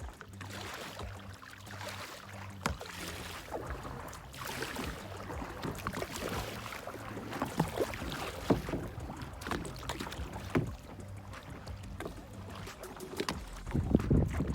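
Kayak paddle strokes splashing and dripping in the water, with irregular short splashes throughout. A gust of wind buffets the microphone about a second before the end.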